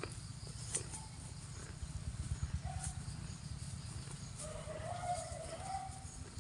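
A cow grazing, tearing grass and chewing, with scattered short crunching clicks over a steady low rumble.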